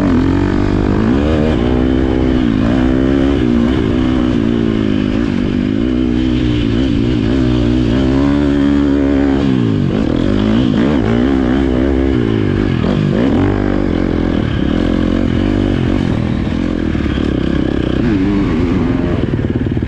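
Motocross bike engine revving hard, its pitch rising and falling again and again as the throttle is opened and eased off.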